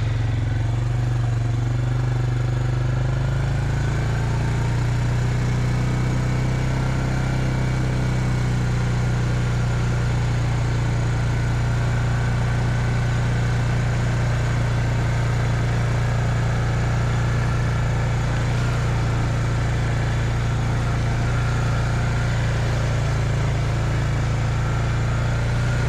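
Quad bike engine running steadily at even revs.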